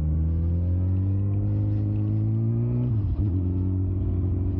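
Suzuki GSX-R 600's inline-four engine accelerating, its pitch rising steadily, then dropping about three seconds in as it shifts up a gear and pulls on at steady revs.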